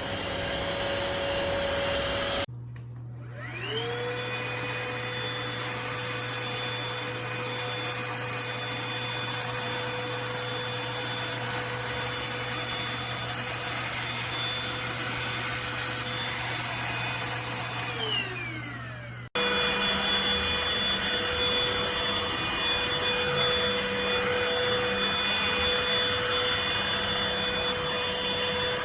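Cordless stick vacuum cleaner motor. It spins up with a rising whine about three seconds in, runs at a steady pitch, and winds down with a falling whine around eighteen seconds. After an abrupt cut it is heard running steadily again.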